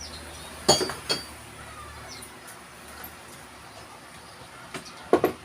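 Hammer blows on nails: two sharp metallic strikes about a second in and two more near the end, the first ones ringing briefly.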